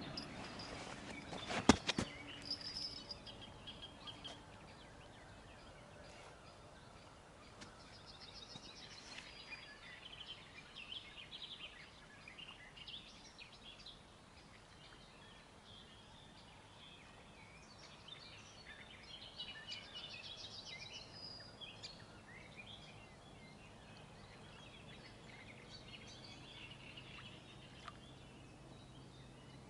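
Faint birdsong: several birds chirping and trilling on and off, with one sharp click about two seconds in.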